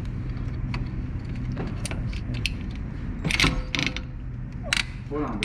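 Hand socket ratchet wrench clicking in short runs as a bolt is loosened, over a steady low hum.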